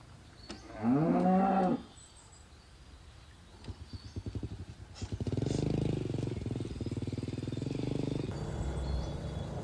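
A cow moos once, a rising call about a second long. From about four seconds in, a small motor-vehicle engine comes in and runs steadily.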